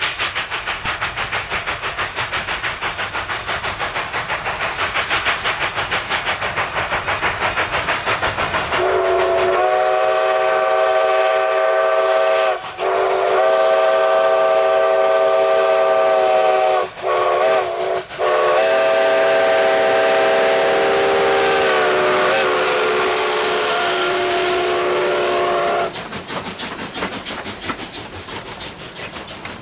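Narrow-gauge steam locomotive working with rhythmic exhaust chuffs and hiss. Its steam whistle then sounds four blasts, long, long, short, long: the grade-crossing signal. The final long blast wavers in pitch before it cuts off, and the chuffing carries on more quietly after it.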